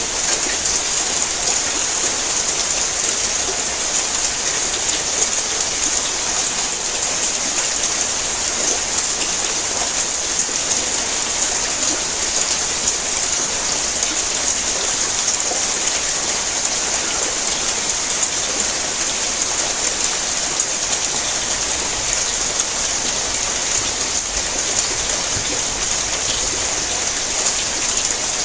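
Heavy rain falling steadily on a tin roof: a dense, even hiss of countless fine drop impacts, bright and unchanging in level.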